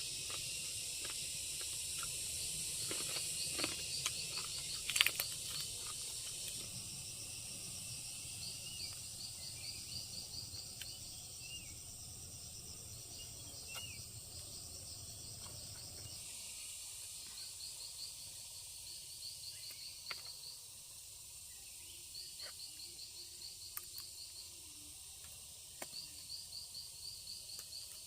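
Insects chirping in repeated trains of rapid pulses over a steady high-pitched hiss, with a few short clicks, the sharpest about five seconds in.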